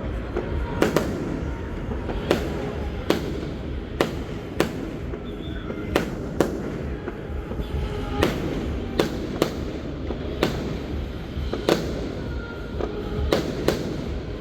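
Aerial fireworks going off in a rapid, irregular series of sharp bangs, more than a dozen of them, roughly one every half second to second, over a continuous low rumble.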